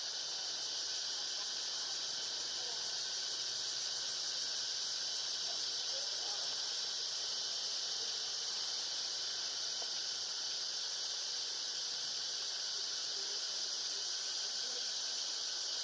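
Steady, high-pitched insect chorus droning without a break, with a few faint short squeaks underneath.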